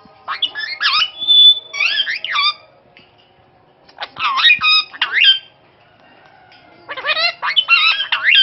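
A parakeet calling in three bouts of quick squawks, each call sweeping sharply up and down in pitch, with short pauses between the bouts.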